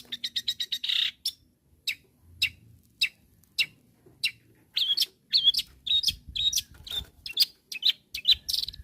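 Long-tailed shrike (cendet) singing in its loud fighting call to rivals: a fast run of sharp chips at the start, then single clipped notes about twice a second, quickening into a busier run of bending, burry notes from about five seconds in.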